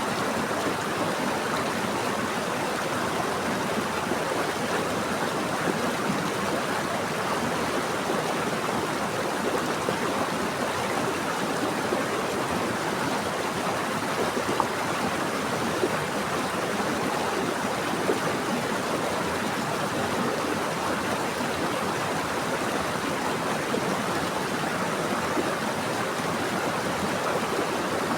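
Running water flowing steadily: a dense, even rush with no let-up and no other sound.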